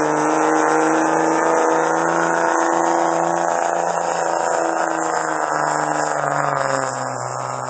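Diesel pickup truck engine pulling hard at high, steady revs under the load of a pulling sled; its pitch sags slightly near the end.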